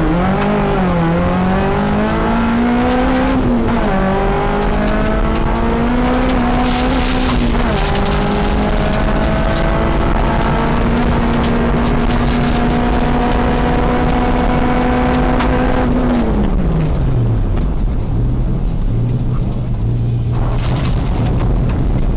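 Tuned Fiat Seicento rally car's engine heard from inside the cabin at full effort, revving up through quick gear changes, then held at high revs for several seconds. About sixteen seconds in the revs fall away as the driver lifts off, and the engine settles to a lower, steady pitch.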